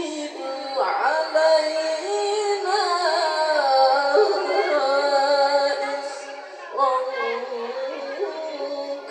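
A young reciter's voice chanting Quran recitation (tilawah) in a long, ornamented melodic line, the pitch gliding and turning through drawn-out notes, with a brief dip about two-thirds through before the line carries on.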